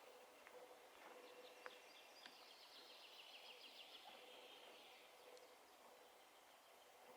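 Faint forest ambience with a small songbird singing one rapid trill of short high notes that slides gradually downward in pitch, lasting about four seconds, with a few scattered single chirps around it.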